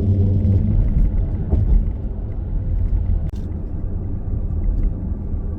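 Vehicle driving over a bumpy road, heard from inside: a loud low rumble of road and engine noise, easing a little about two seconds in.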